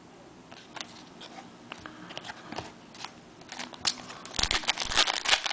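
Light clicks and taps of trading cards being handled, then, from about four seconds in, loud crinkling of a card-pack wrapper being torn and crumpled.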